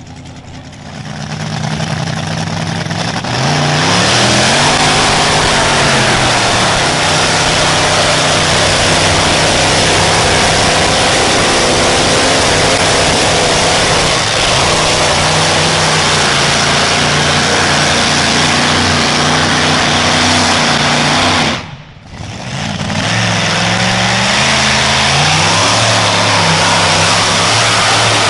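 A pulling vehicle's engine running hard at high revs, its pitch wavering up and down as the load changes. It builds to full power over the first few seconds, cuts out suddenly for a moment about three quarters of the way through, then comes straight back.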